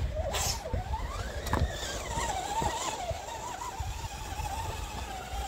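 Electric whine of an RC rock crawler's Tekin 35T brushed motor and geared drivetrain, its pitch wavering up and down with the throttle as the crawler picks its way over the course. A couple of sharp knocks in the first two seconds.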